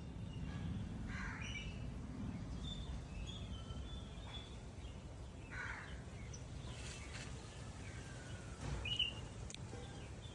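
A crow cawing twice, about a second in and again just past the middle, with smaller birds chirping high and a sharp, louder chirp near the end, over a steady low background rumble.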